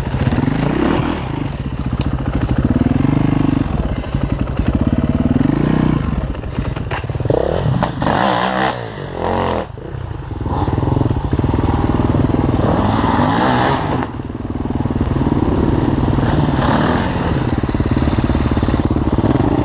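Enduro dirt bike engine running under changing throttle, its pitch rising and falling as it is ridden, with a brief drop-off about nine seconds in.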